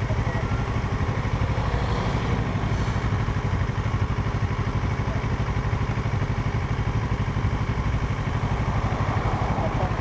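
Parallel-twin motorcycle engine running steadily, with an even, pulsing note that holds without revving up or down.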